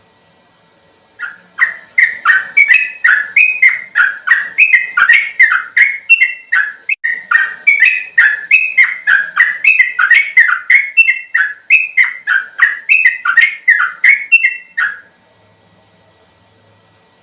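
Yellow-vented bulbul (trucukan) singing its fast 'ropel' song: a long, rapid run of bubbly whistled notes, several a second, that stops near the end.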